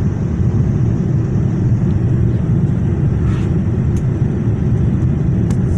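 Steady low cabin rumble inside a Boeing 787 airliner during landing: engine and airflow noise, with a couple of faint clicks near the end.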